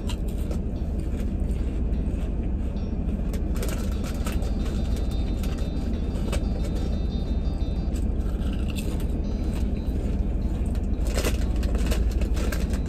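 Crisp potato chip being crunched and chewed, in irregular crackly bites, over a steady low rumble from the car the eater is sitting in.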